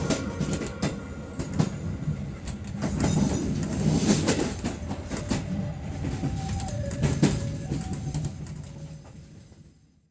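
Passenger train running on rails: a low rumble with irregular wheel clicks and clatter, fading out near the end.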